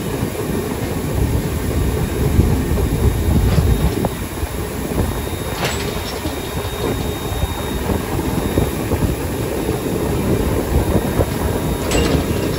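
Two passenger trains running side by side on parallel tracks, heard from the open door of a moving coach: a steady rumble of wheels on rails with rushing air, and a few sharp clicks.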